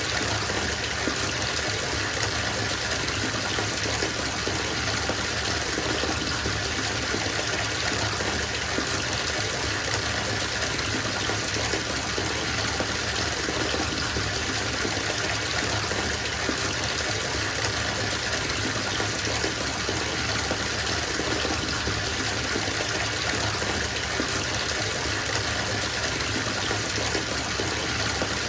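Water running from a bathtub tap into a filling tub: a steady, even gushing.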